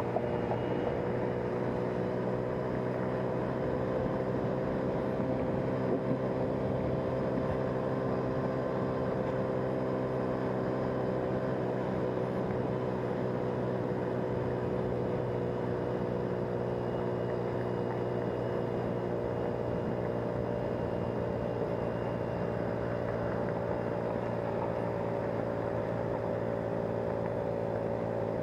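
Car running at a steady cruise: a continuous engine hum with several steady pitched lines over road noise, the pitch sagging slightly and rising again.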